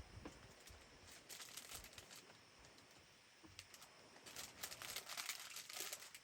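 Faint crinkling and rustling in two spells: briefly about a second in, then longer and louder from about four seconds in.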